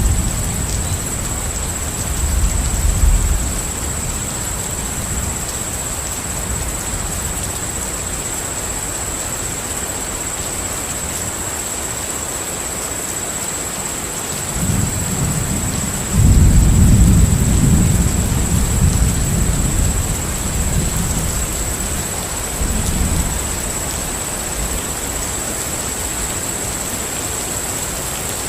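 Steady rain with low rolling rumbles of thunder: a short one at the start, then a longer, louder roll from about halfway that fades out over several seconds. A thin steady high tone runs under the rain.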